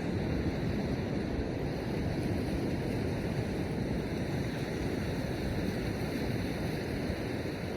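Steady rush of surf on the beach mixed with wind rumbling on the microphone, even throughout with no distinct breaks or bird calls.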